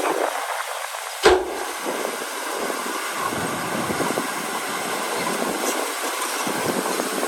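Heavy earthmoving machinery working with a steady rumbling clatter and a single sharp bang about a second in.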